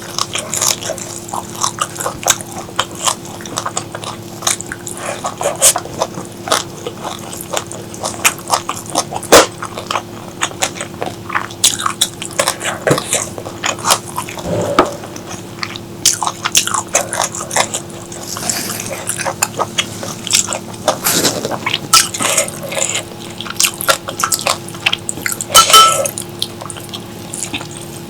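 Close-miked eating: a person biting and chewing food, with many sharp crunchy bites and wet mouth clicks at an irregular pace, over a faint steady hum.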